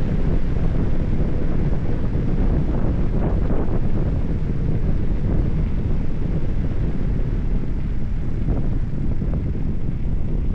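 Steady low rumble of wind buffeting the microphone, as when riding a bicycle at speed.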